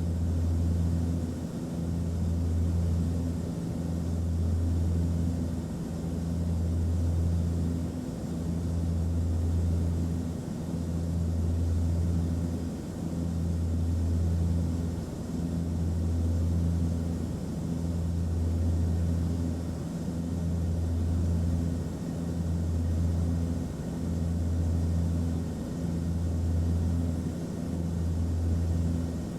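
Aircraft cabin noise: a steady low engine drone with a faint hum above it, swelling and easing about every two seconds.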